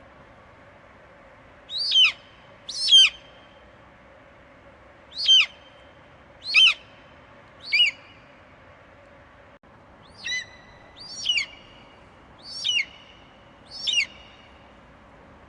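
An eagle screeching: nine short, high calls, each sliding sharply down in pitch, spaced roughly one to two seconds apart, over a steady faint hiss.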